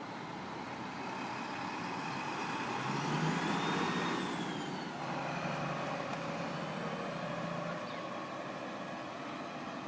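Diesel coach engine running, with a vehicle passing close by about three seconds in: the sound swells, its pitch rises and falls, then it fades back to a steady running hum.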